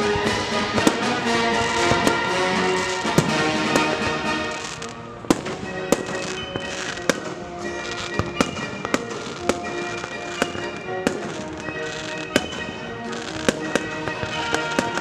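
Fireworks shells bursting in sharp bangs over music with long held notes. The bangs come thick and fast at first, thin out about five seconds in, then go off about once a second.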